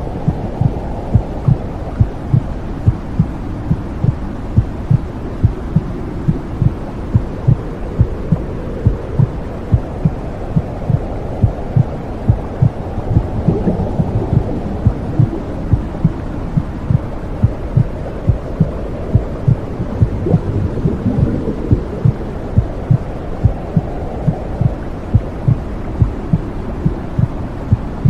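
Womb sound: a mother's heartbeat pulsing steadily and evenly over a low, muffled whooshing hum, made to lull a baby to sleep.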